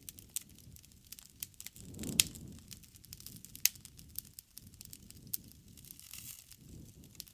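Wood fire crackling: sharp pops and snaps scattered irregularly over a low hiss of burning, the loudest snaps coming about two seconds in and again a little later.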